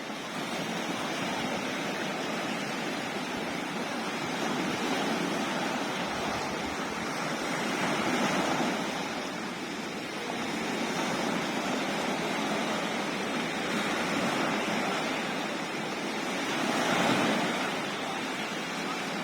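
Sea waves washing in, a steady rush of surf that swells twice, about eight seconds in and again near the end.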